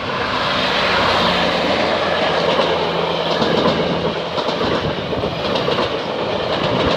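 GO Transit commuter train passing close by: a loud, steady rush of wheels on rail. A low drone sits under it for the first few seconds, and later come short repeated clicks of wheels crossing rail joints.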